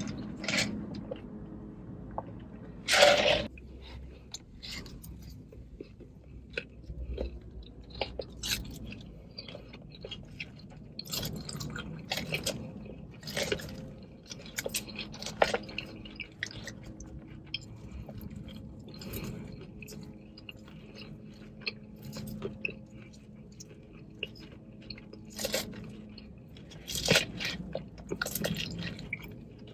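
Close-miked chewing and crunching of salad, with short crisp bites every second or so and a louder crunch about three seconds in.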